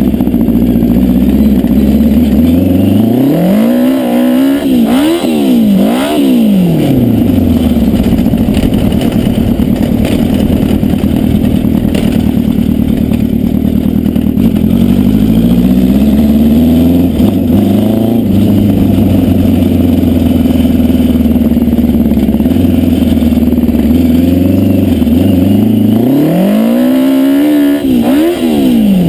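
Yamaha FJ1100 air-cooled inline-four motorcycle engine in a homemade dune buggy, running at a steady idle and revved in a run of quick throttle blips a few seconds in, a smaller rise about halfway through, and another run of quick blips near the end.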